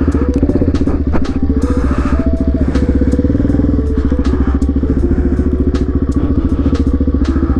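Suzuki DR-Z400SM single-cylinder four-stroke engine with an FMF exhaust, heard from the rider's seat while riding. Its engine speed rises and falls in steps several times.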